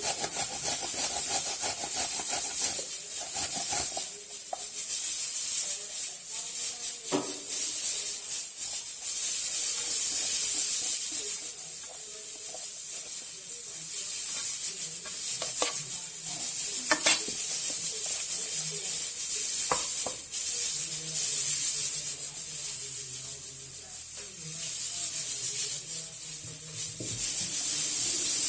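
A carrot being grated by hand on a kitchen grater: continuous rasping scrapes, with a few sharp clicks in the middle as the grater or carrot knocks.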